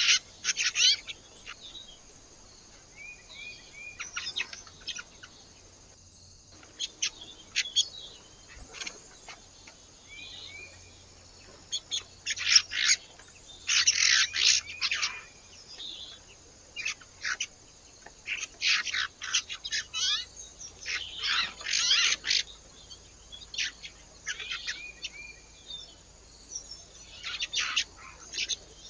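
Small birds chirping in quick clusters of short, high calls, coming again and again with short gaps between.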